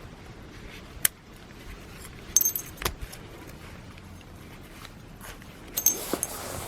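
Small metal parts and hand tools clinking on a workbench while a brush cutter is taken apart. There is a sharp click about a second in, then two short clusters of ringing metallic clinks, one near the middle and one near the end.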